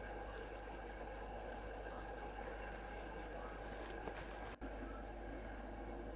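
A small songbird calling: short, high, thin notes that slide downward, repeated roughly once a second over a steady outdoor background hiss. The sound cuts out for an instant a little past the middle.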